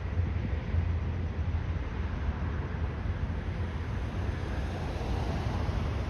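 Steady low rumble of a Boeing 737-700's CFM56 jet engines on takeoff, heard outdoors with wind buffeting the microphone.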